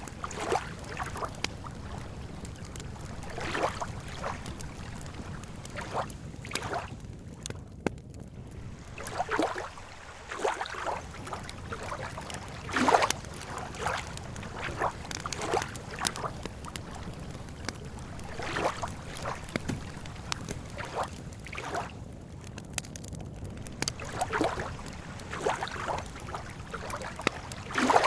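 Lake water lapping at the shore in small irregular splashes, roughly one a second, over a steady low rumble.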